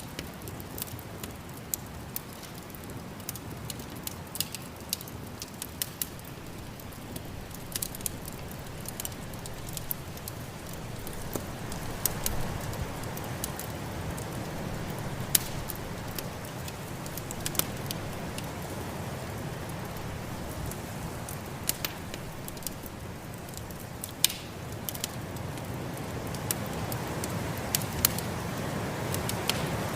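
Wood fire crackling with scattered sharp pops, over the steady rush of snowstorm wind that swells about twelve seconds in and again near the end.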